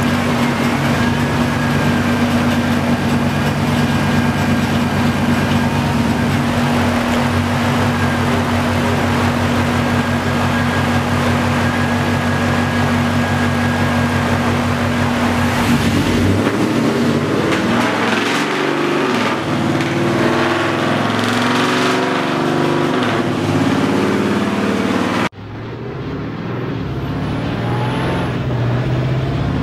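Supercharged 6.1 Hemi V8, fitted with a Hellcat supercharger, running on a chassis dyno while its supercharger belt is slipping and costing boost. It holds a steady pitch for about the first half, then turns rougher and changes. About 25 seconds in the sound cuts off abruptly and comes back quieter, building again.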